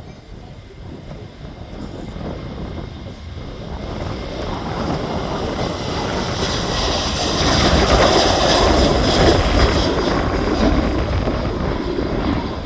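Jet airliner taking off, its engine noise building to a peak about eight seconds in and easing slightly near the end.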